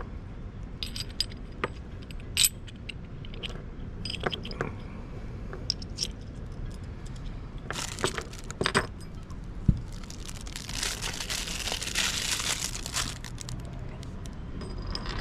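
Small metal fittings clinking and clicking as chain tensioner and anchor swivel hardware is handled and fitted together, with a few seconds of rustling hiss about ten to thirteen seconds in.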